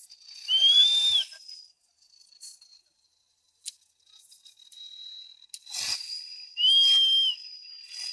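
Two short, high whistle notes about six seconds apart, each rising, holding level for most of a second, then dropping.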